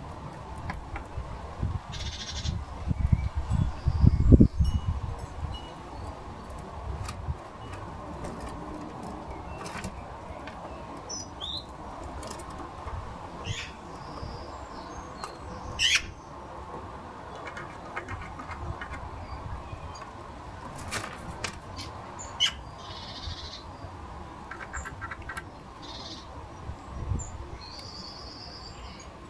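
Small garden birds at a bird table calling in short, scattered chirps, with one quick sweeping call about halfway through. A low rumble rises and peaks about four seconds in.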